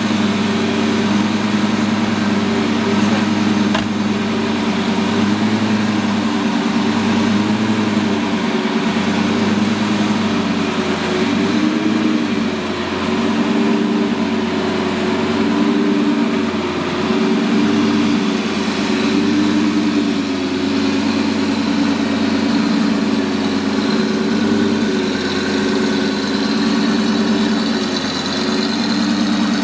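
Lamborghini supercar engine idling steadily, a low, even purr with slight rises and falls in its note.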